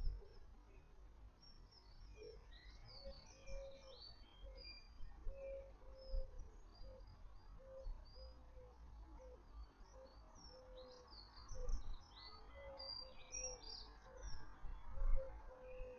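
Small garden birds chirping and twittering throughout, over a run of short, low, evenly repeated notes and a faint low rumble.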